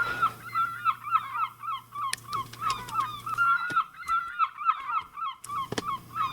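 A flock of birds calling with short, overlapping honks in quick succession, with a few sharp clicks between them.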